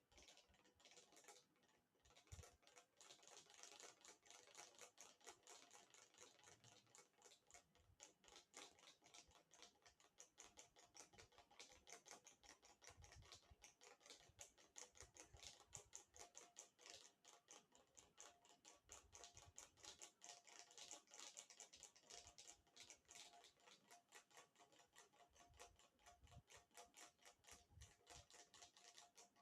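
Ceiling fan running with a faint, rapid, even ticking that keeps up throughout, the noise the fan has developed.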